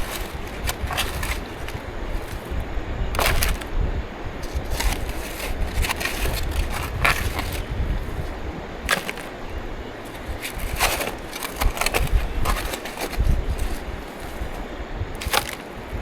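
Shovel digging into river gravel: repeated scrapes and sharp clinks of the blade and stones, at irregular intervals, over a steady low rumble.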